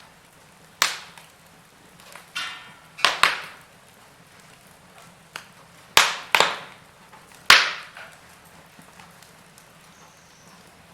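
Wood fire in a fireplace crackling, with sharp pops at irregular moments, several close together about three seconds in and again from about six to seven and a half seconds in, over a faint steady hiss.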